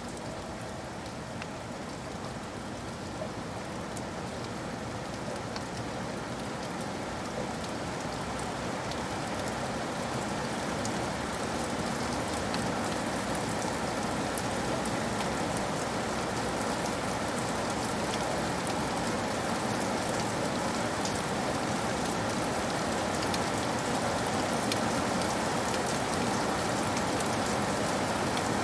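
Steady rain falling, a dense even hiss with scattered individual drop ticks, growing gradually louder.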